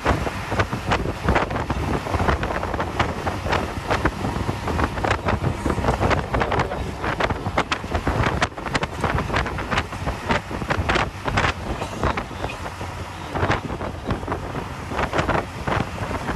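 Hino 1J coach under way: steady engine and road rumble, wind buffeting the microphone, and frequent short rattles and knocks.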